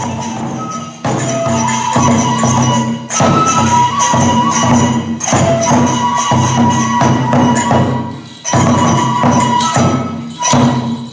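Kagura accompaniment: a taiko drum and small metal hand cymbals beating a brisk, steady rhythm, with a held higher melody line running over the strikes.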